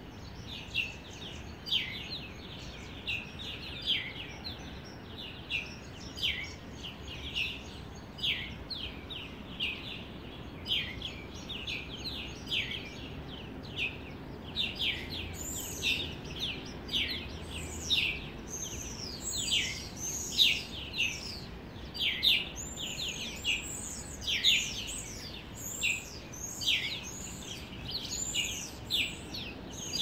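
Many small birds chirping: a constant stream of short, high calls that sweep downward in pitch, growing busier and louder about halfway through, over a faint steady background noise.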